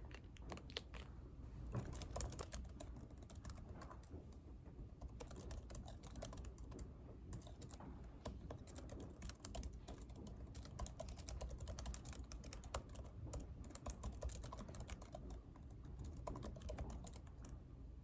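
Typing on a computer keyboard: a continuous, irregular run of quick keystrokes with a low steady hum underneath.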